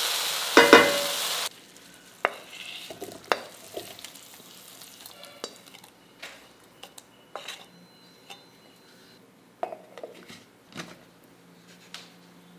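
Loud hiss of steam from a pressure cooker, cut off suddenly about a second and a half in, just after two loud metal clanks. Then scattered clinks, knocks and scrapes of a utensil stirring in a metal pot.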